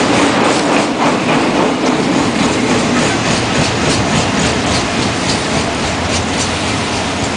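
Train running on the rails: a steady rolling rumble with a repeated clickety-clack of wheels crossing rail joints.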